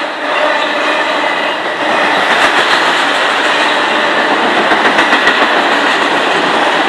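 A long train rolling past on a creek trestle: steady, loud wheel-on-rail noise with clicks of wheels over the rail joints, a little louder from about two seconds in.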